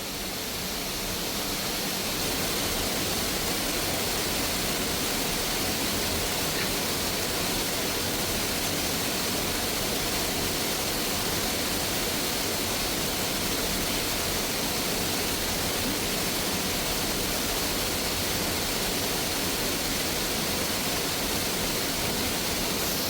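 Waterfall pouring into its plunge pool: a dense, steady rushing that swells slightly over the first couple of seconds and then holds level.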